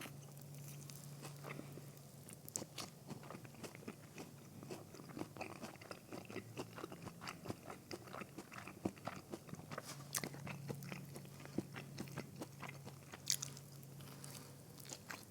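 Close-miked biting and chewing of a crunchy fried mozzarella stick: repeated crisp crackles of the breaded fried coating.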